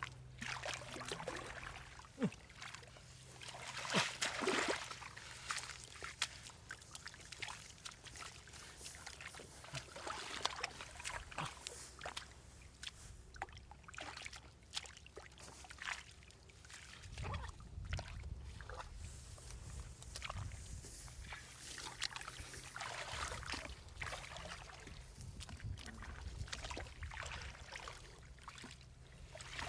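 Shallow water sloshing and trickling, with irregular small splashes.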